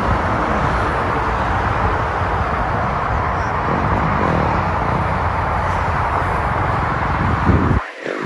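Steady rushing road and wind noise of riding along a street, with vehicle sound mixed in. It drops away briefly near the end.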